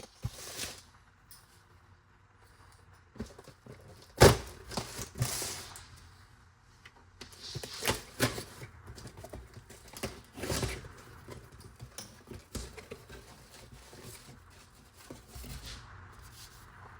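Irregular handling noise: scattered knocks, clicks and rustling, with the sharpest knock about four seconds in.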